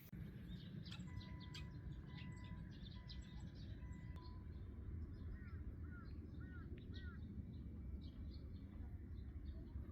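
Small birds chirping, with a run of short, level whistled notes in the first few seconds and four arched chirps in the middle, over a steady low rumble.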